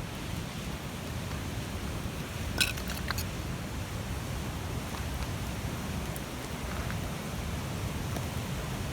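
Large wood bonfire burning: a steady low rush with a few sharp crackles and pops about three seconds in.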